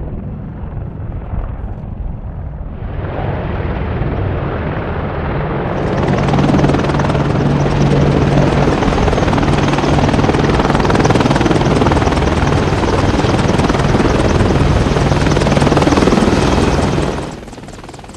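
AH-64 Apache attack helicopter running, a loud steady rotor and engine noise. It grows louder and brighter about three and six seconds in, and cuts off sharply near the end.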